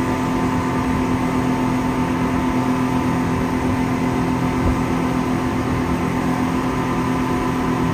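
An engine running at a steady speed, a constant drone with an unchanging hum.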